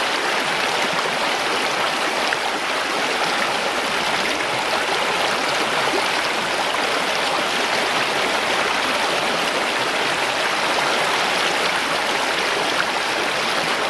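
Mountain stream rushing steadily over rocks, a continuous even flow of water.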